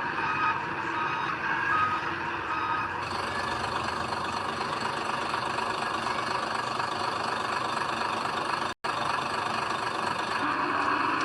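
Heavy diesel machinery running steadily, with a truck's reversing beeper sounding evenly spaced beeps that stop about three seconds in; after that only the engine noise carries on, broken by a very short dropout near the end.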